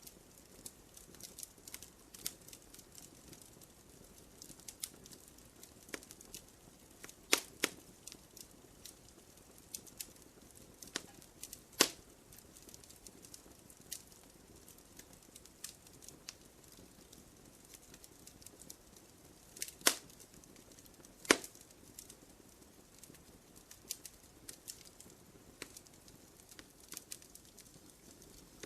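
Wood fire crackling in a fireplace: a steady scatter of small crackles over a faint hiss, with a handful of louder, sharper pops spread through.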